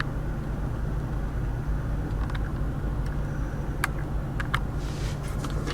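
Steady low hum of a 2015 Mazda CX-5 idling, heard inside the cabin, with a few light clicks of interior trim being handled partway through.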